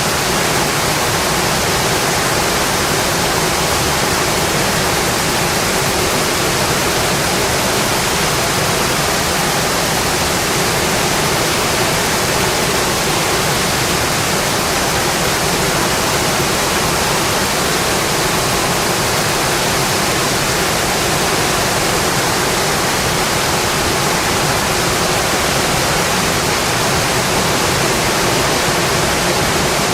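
Steady, even rainfall: a continuous hiss of rain with no single drops, knocks or thunder standing out.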